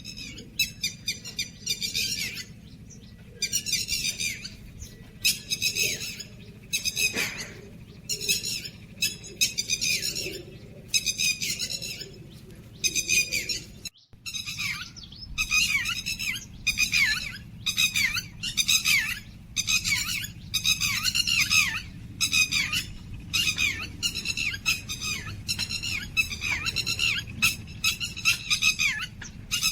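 Small songbirds giving harsh, chattering calls in quick repeated bouts, with a brief dropout about halfway through.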